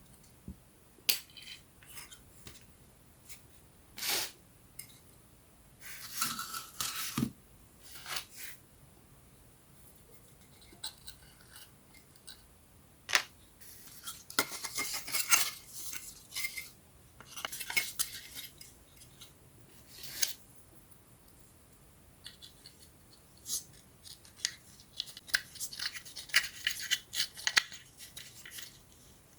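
Small wooden puzzle pieces being handled and fitted together: scattered sharp clicks and taps, with several stretches of scratchy rustling and crackling.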